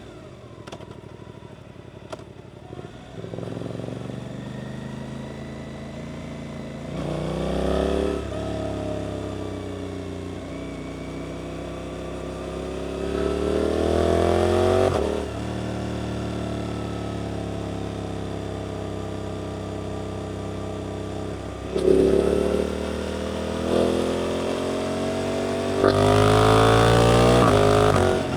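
Suzuki GSX-8S parallel-twin engine through an Arrow aftermarket exhaust, heard from the bike while riding. It starts quiet, then pulls hard twice with a rising engine note, the second pull dropping off sharply about halfway through. After a steadier stretch it pulls again in several short loud bursts near the end.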